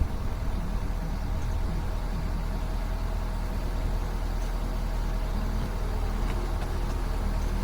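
Truck engine running steadily with an even low hum while the truck drives, heard from inside the cab.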